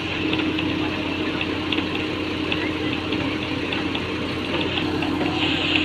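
Heavy diesel engine of construction machinery running steadily, with a constant hum and light, irregular ticks above it.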